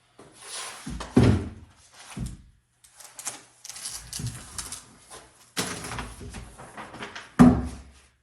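Paper rustling as it is rolled out and handled on a workbench, with a few knocks of things set down on the bench, the sharpest two about a second in and near the end.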